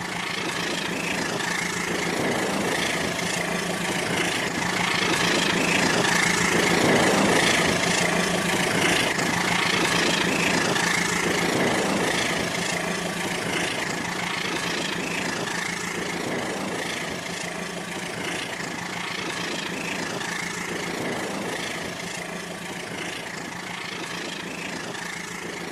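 Battery-powered Rail King toy train running on its plastic track: a steady small-motor whine with a rattling hum, growing louder about a third of the way in and slowly fading toward the end.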